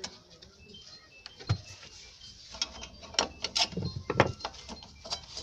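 Metallic clicks, clinks and knocks of hands and tools working on a car's rear drum brake parts, coming thick and loudest in the second half, with brief ringing of struck metal.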